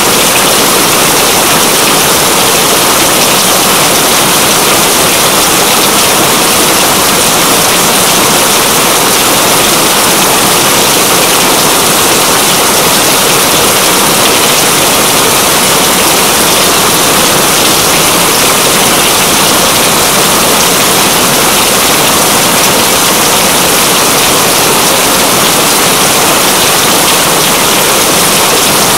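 Steady heavy rain, a dense even hiss with no let-up.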